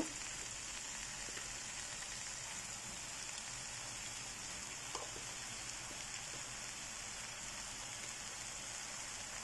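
Onions, garlic and curry spices frying in oil in a pot, a steady low sizzle under the raw chicken pieces being added, with one light tap about five seconds in.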